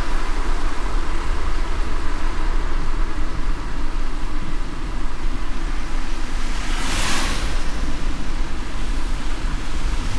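Car driving in light rain: a steady low rumble of road and engine under an even hiss, with one brief swish about seven seconds in.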